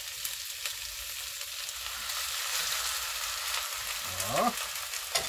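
Sliced onions sizzling in hot oil in a Dutch oven. The sizzle grows louder about two seconds in as the seasoned pork roast is laid on top. A few light clicks of metal tongs, and a short rising tone about four seconds in.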